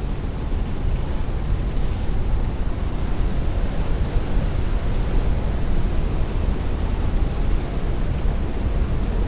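Heavy rain beating on a window with strong wind rushing, a steady, dense noise heaviest in the low end.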